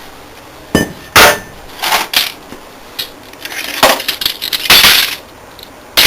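A heavy metal flywheel swung down repeatedly onto the glass of a broken CRT picture tube, about seven irregular strikes, each one crashing and clinking as glass shatters. The tube has already lost its vacuum, so the glass breaks without an implosion.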